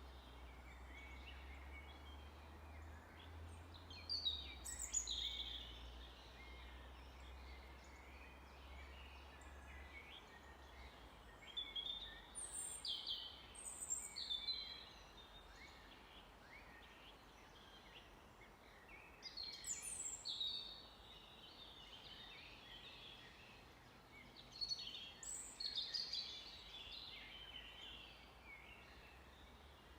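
Songbirds singing short phrases of high, quickly sweeping notes, one phrase every six to eight seconds, over a faint steady hiss and low hum.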